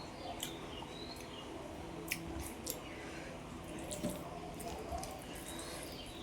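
Wet chewing and mouth sounds of a person eating, with a few scattered sharp smacks and clicks.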